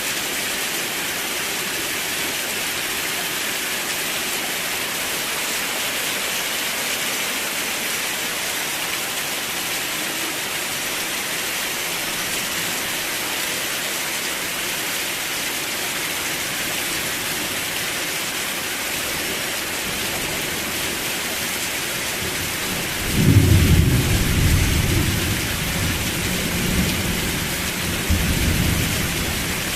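Steady heavy rain falling, an even hiss throughout. About 23 seconds in, a deep roll of thunder rumbles, which swells again a few seconds later before fading.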